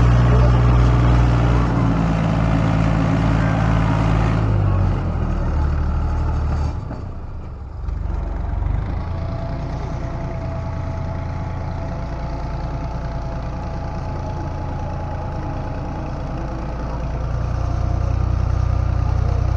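Tractor diesel engine running hard under load, a loud steady low drone. Its note changes about four seconds in, dips briefly around seven seconds, then holds steady and swells again near the end.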